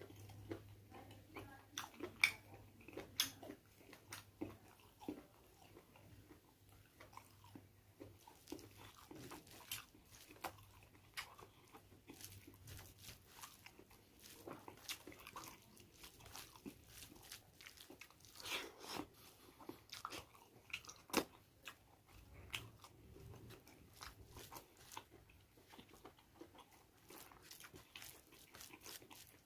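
Close-up chewing and biting of pork, with irregular crunches and wet mouth sounds, a few sharper bites standing out.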